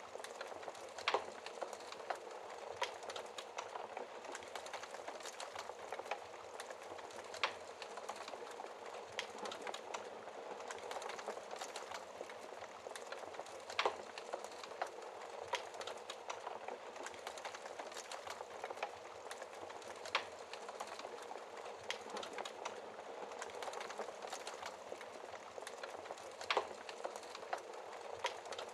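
Wood fire crackling in a fireplace: a steady soft hiss with frequent small crackles and a few sharper pops every several seconds.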